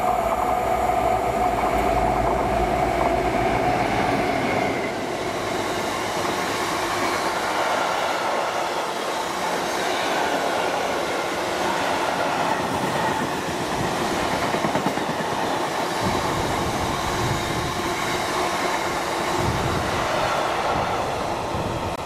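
Freight train of tank wagons running through a station. A steady engine-like tone sounds in the first few seconds, then the wagons rumble and clatter past on the rails.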